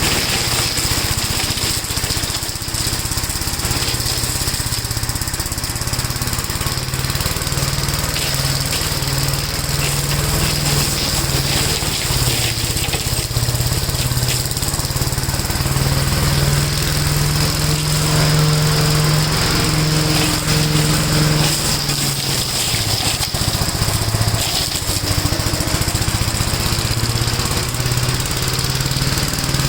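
1969 Gravely walk-behind tractor engine running steadily under load while mowing and mulching leaves. Its note shifts up and down with the load and is louder and steadier about 16 to 21 seconds in.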